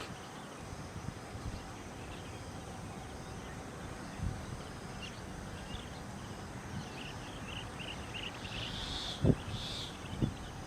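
Outdoor ambience with a steady background hiss and a run of short, high bird chirps in the second half, growing louder near the end, broken by a few dull thumps.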